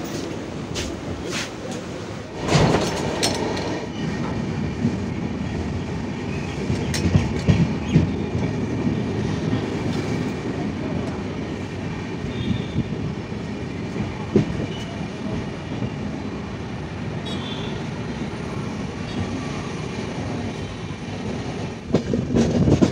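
Moving passenger train heard from inside the coach: a steady rumble of wheels on the rails with scattered clicks, and a louder rush about two and a half seconds in.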